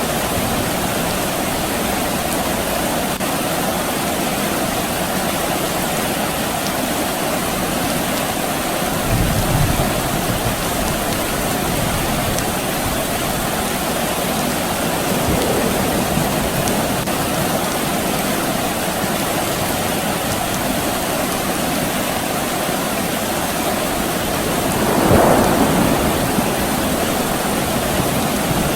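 Steady rain falling, with brief rumbles of distant thunder: a low one about nine seconds in, and a louder one near the end.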